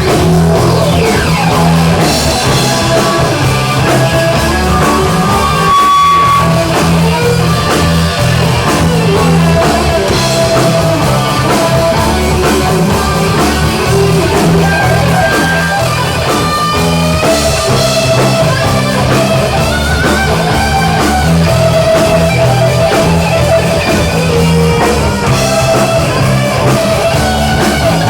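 Rock band playing live: guitar over bass and a drum kit, loud and continuous.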